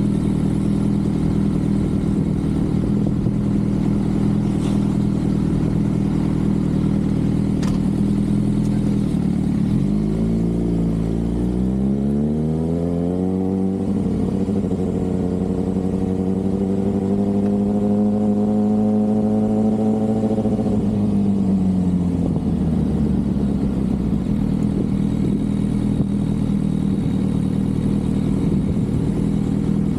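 Motorcycle engine running steadily, then revving up about a third of the way in, with a dip in pitch at a gear change. It holds at higher revs for several seconds, then falls back to a steady lower note.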